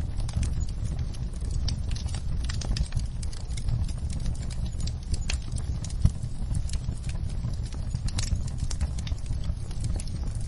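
Wood fire crackling in a fireplace: irregular pops and snaps over a steady low rumble of the burning logs, with one sharper pop about six seconds in.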